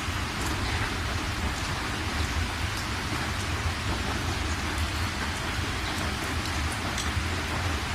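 Steady rain falling, with scattered sharp ticks of single drops over a constant low rumble.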